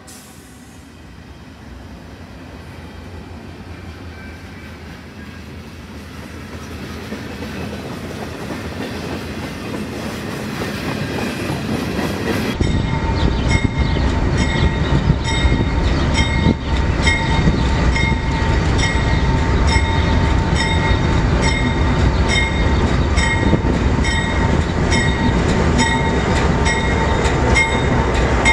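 CSX freight train's diesel locomotives approaching, a low rumble growing steadily louder. About twelve seconds in the sound jumps to the locomotives passing close by, running loud with a steady whine and a regular clack about every three-quarters of a second.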